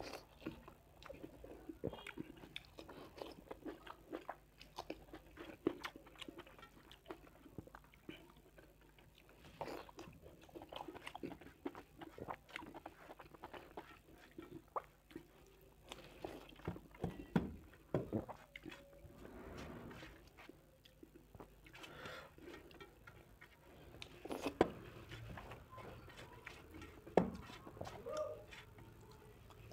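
Close-miked eating sounds: wet chewing and mouth smacks of rice and curry eaten by hand, with fingers mixing and scraping rice on a steel plate. Irregular clicks throughout, with a few louder smacks in the second half.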